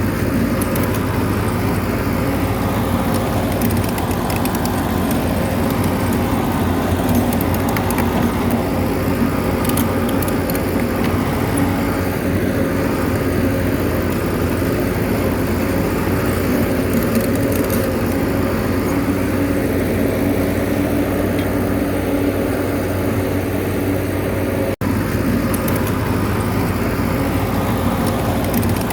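Diesel bulldozer engine running steadily with mechanical clatter, cutting out for an instant near the end.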